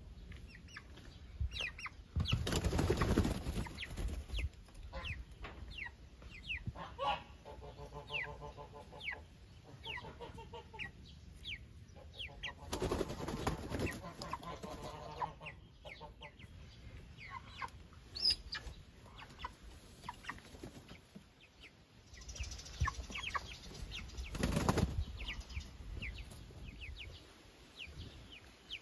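Young meat chickens flapping their wings in three loud bursts, about a dozen seconds apart, with short falling peeps and an occasional drawn-out call throughout.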